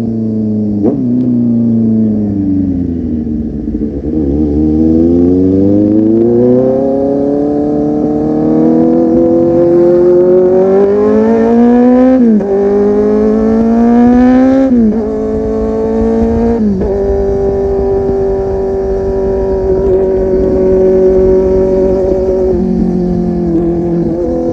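Kawasaki Z800's inline-four engine through an aftermarket full-system exhaust. The revs fall for the first few seconds, then climb through the gears with upshifts about 12, 15 and 17 seconds in, before settling into a steady cruise.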